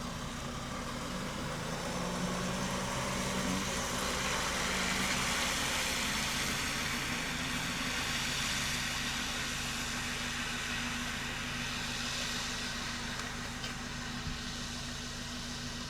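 A motor vehicle's engine idling steadily, with a broad hiss that swells for a few seconds in the middle.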